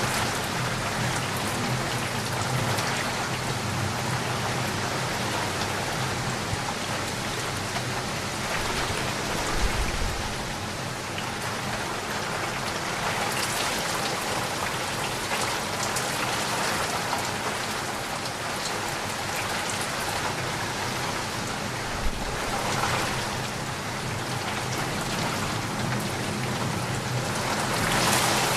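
Steady rain falling and pattering on a surface, with two brief low thumps, about ten seconds in and again about twenty-two seconds in.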